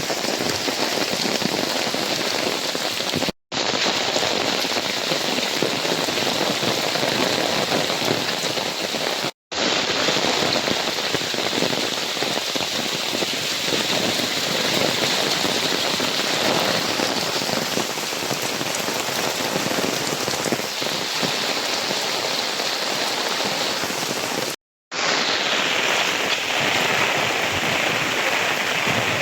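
Heavy rain falling steadily onto surfaces as a dense, even hiss. It cuts out to silence for a split second three times.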